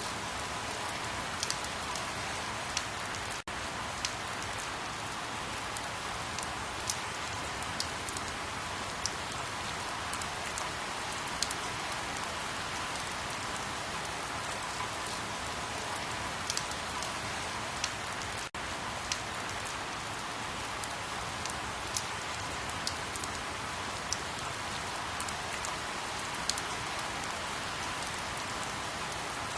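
Steady rain: an even hiss with scattered individual drops ticking sharply now and then. The sound drops out for an instant twice, a few seconds in and again around the middle.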